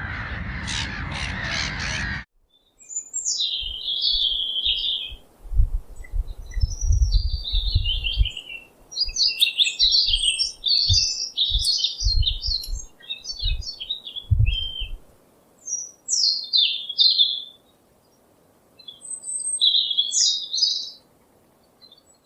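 A crow cawing in harsh, repeated calls that cut off abruptly about two seconds in. A small bird's high chirps and twitters follow in quick bursts, with low thumps under some of them.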